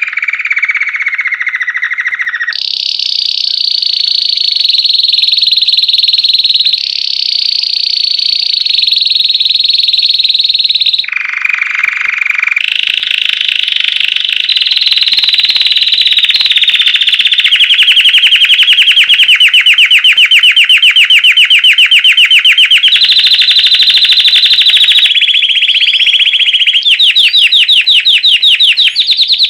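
Belgian canary singing loudly without a break, in the classic 'campainha' (bell) song style. Its phrases switch every few seconds between lower rolling trills, higher steady trills and fast trills of rapidly repeated notes.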